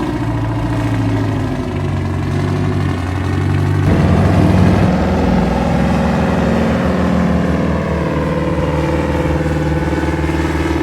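Engine of an old Dodge 900 truck running, its engine speed rising briefly about four seconds in before settling back to a steady run.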